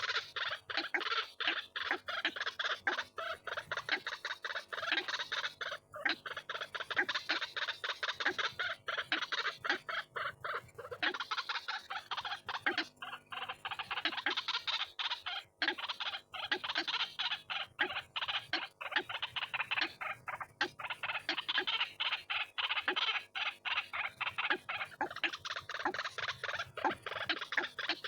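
White-breasted waterhen calling, a dense run of rapid repeated notes that keeps going without a break.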